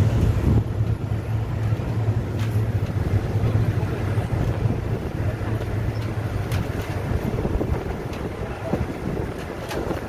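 Passenger train running along the line, heard from inside the carriage: a steady low rumble with wind noise at the window and a few sharp clicks. The low hum eases off after about seven seconds.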